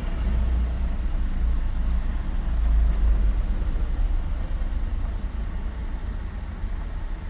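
Street traffic: a steady low rumble of cars and other road vehicles on the street, with no single vehicle standing out.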